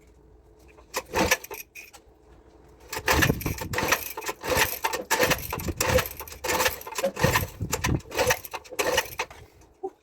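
Irregular metallic clinking and clattering, like tools and small metal parts being handled and knocked together: a short burst about a second in, then a busy run of clatter from about three seconds until near the end.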